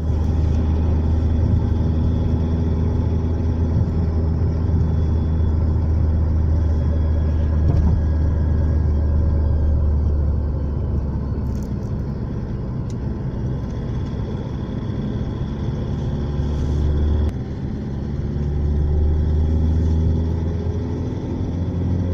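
Toyota car engine running with a steady low hum. Its level eases off after about ten seconds, drops suddenly about 17 seconds in, then rises again as the pitch climbs slightly.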